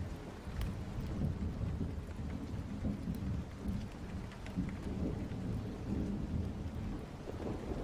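Thunder rumbling low and rolling, over steady rain.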